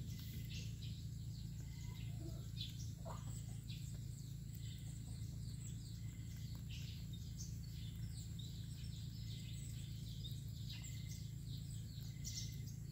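Small birds chirping and calling in quick, short notes throughout, over a steady low hum.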